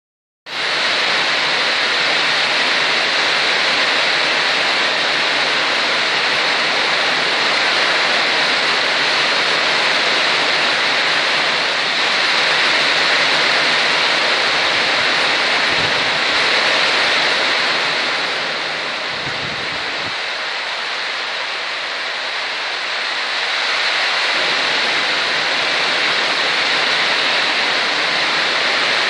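Heavy rain pouring down in a steady hiss, easing a little for a few seconds just past the middle.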